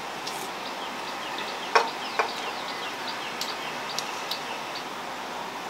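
Birds chirping in many short, quick notes over a steady background hiss, with a sharp knock just before two seconds in and a couple of fainter clicks.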